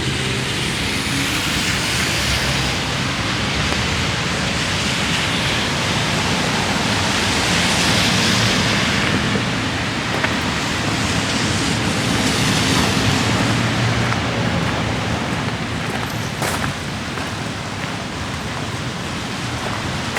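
Steady hiss of light rain and cars passing on a wet road, swelling and fading about three times as vehicles go by, with one brief click near the end.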